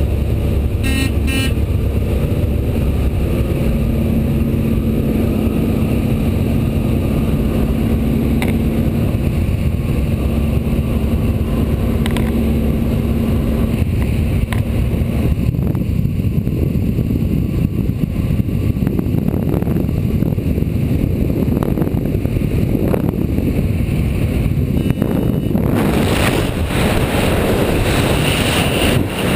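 Steady drone of an An-2 biplane's nine-cylinder radial engine. About 26 seconds in, a loud rush of wind rises over it.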